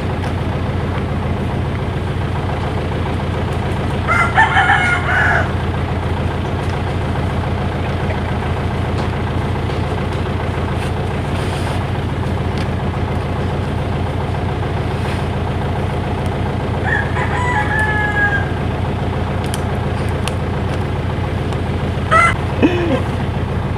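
A rooster crows about four seconds in and again at around seventeen seconds, with a shorter call near the end, over the steady drone of an engine running.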